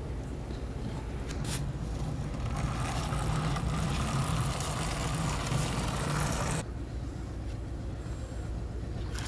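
A small motor running steadily with a low hum and a hiss, growing louder for a few seconds, then dropping off abruptly about six and a half seconds in to a quieter hum.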